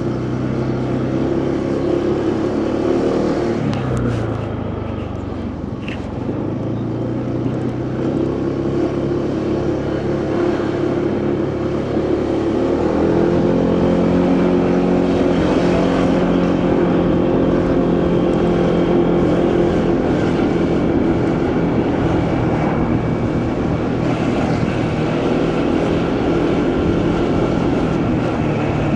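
Motorcycle engine running at road speed with wind and road noise. Its pitch drops about four seconds in, then climbs around twelve to thirteen seconds in as the bike speeds up, and holds steady after that.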